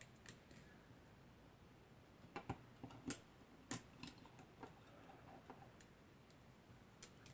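Faint, scattered small clicks and taps at uneven intervals from hands handling Cat6 cable wires and a patch panel, the clearest a few seconds in, against near silence.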